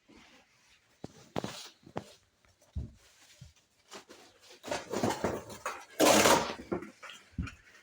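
Wood chips and kindling being handled and laid into a fireplace firebox: irregular clicks, knocks and dull thumps, with rustling. The loudest rustle comes about six seconds in.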